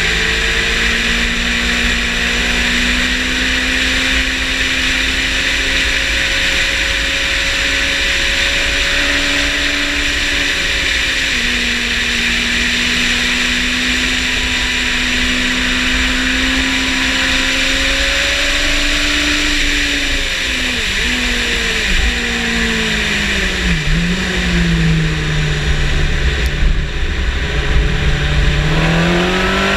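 Yamaha motorcycle engine heard onboard at speed on a race track, held at a steady pitch for a long stretch under a constant rush of wind. About twenty seconds in the pitch drops in several steps as it is shifted down for a corner, then rises again as it accelerates out near the end.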